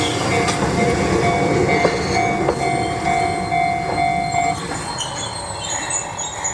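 Enoden 2000 series electric train running, with a rumbling run and a steady high-pitched wheel squeal that stops about four and a half seconds in, leaving the fainter rumble.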